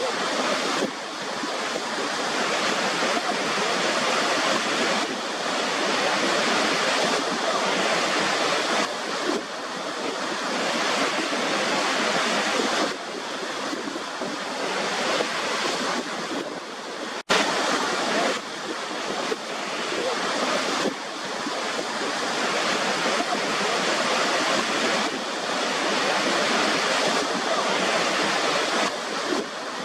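Waterfall: a steady rush of falling water, with a momentary dropout and click about seventeen seconds in.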